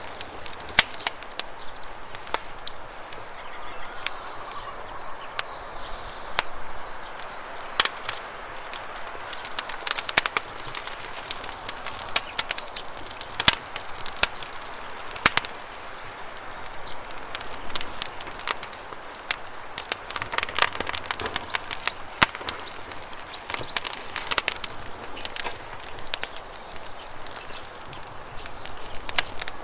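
Wood campfire crackling, with frequent sharp pops and snaps over the steady rush of a river. A bird's high, rapid trill comes in a few seconds in and again about halfway through.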